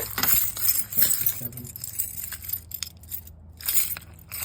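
A large ring of keys jangling, with small metallic clicks and clinks, busiest in the first second or so and again near the end, as they are handled at a lock.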